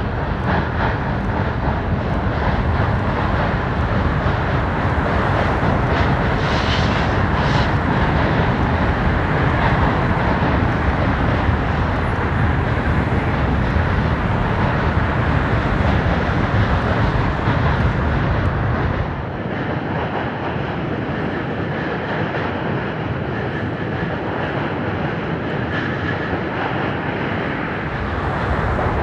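Manifest freight train rolling over a slough bridge: a steady, heavy rumble of the train. About two-thirds of the way through, the deepest part of the rumble drops away and the sound eases a little.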